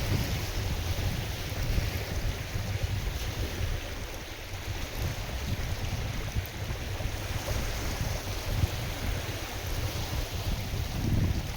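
Wind blowing over a lake with waves washing steadily, and gusts buffeting the microphone as a low, uneven rumble.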